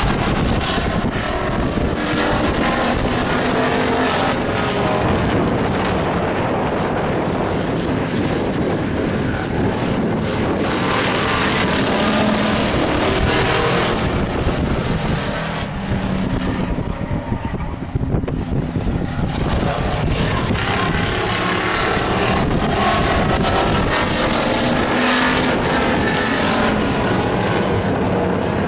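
A pack of truck stock race trucks running laps on a short oval track, several engines at once, their pitch rising and falling as they go by. The sound swells loudest about halfway through as trucks pass close, then dips briefly.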